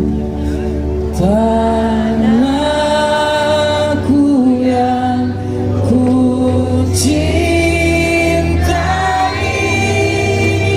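Live band music: a slow sung melody with long held notes over a sustained low bass.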